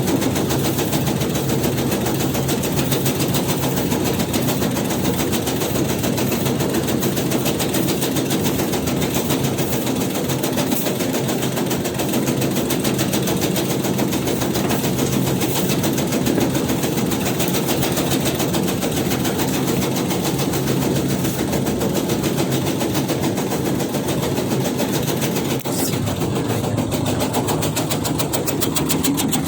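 Tobacco-shredding machine running steadily, its cutter chopping tobacco leaf with a fast, even clatter.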